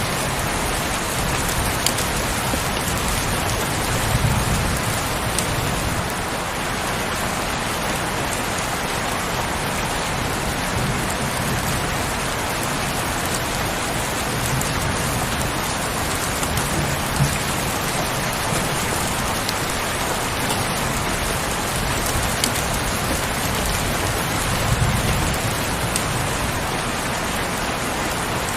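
Heavy rain falling steadily, with scattered faint drop ticks. Low rumbles swell twice, about four seconds in and near the end.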